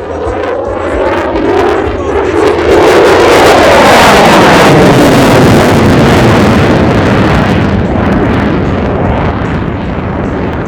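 An aircraft making a fast flypast: a loud rush of engine noise swells to its peak about three to five seconds in, falling in pitch as it passes, then slowly fades.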